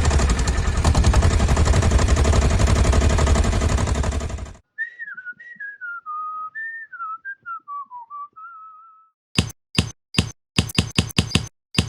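A loud, dense rumbling noise that cuts off suddenly, then someone whistling a short, wavering tune, then a quick run of about ten sharp cracks near the end.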